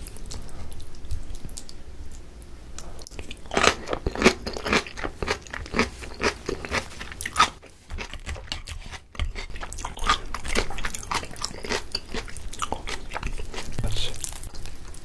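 Close-miked chewing of a pan-fried pollack-roe dumpling, its crisp fried skin crunching in many quick, sharp chews. The crunching grows louder about three seconds in.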